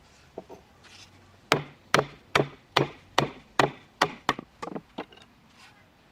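A tool striking wood: a steady run of about eight sharp knocks, a little over two a second, then a few lighter knocks.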